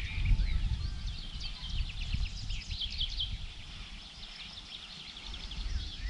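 Small birds chirping and singing in a busy chorus, over a low rumble that eases off about four seconds in.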